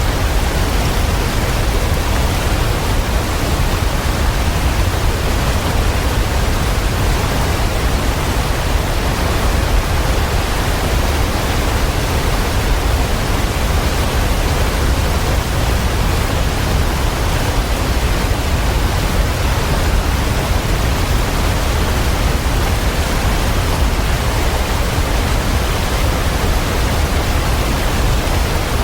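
Waterfall: water falling in a steady, even rush that never changes, heaviest in the low end.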